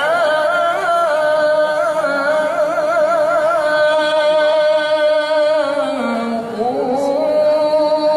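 Melodic Quran recitation (tilawah): a qari holds a long, drawn-out note, ornamented with rapid wavering trills, then slides to a new held note near the end.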